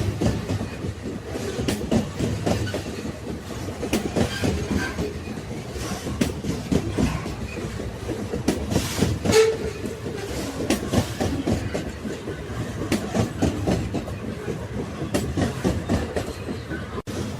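Railway wagons rolling along the track: a steady rumble full of irregular clicks and knocks from the wheels over the rail joints, with a brief squeak about nine seconds in. The sound cuts out for an instant near the end.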